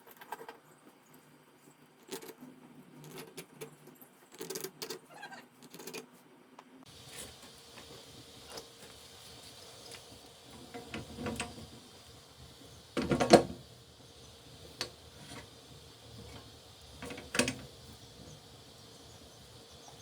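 Scattered clicks and knocks, with a loud knock about thirteen seconds in and another about seventeen seconds in; a faint steady hiss sets in about seven seconds in.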